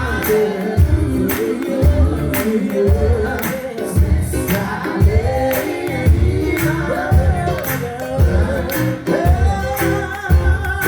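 Live gospel music: a vocal group singing over a band with a steady beat.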